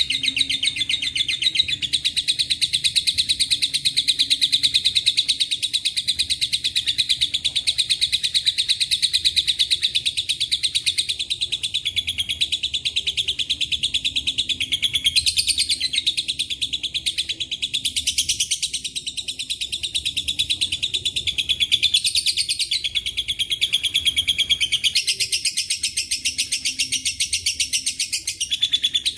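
Lovebird's long, rapid chattering song (ngekek panjang): a continuous fast run of high chirps with few breaks, shifting to different phrases now and then, filled with cililin- and canary-like notes.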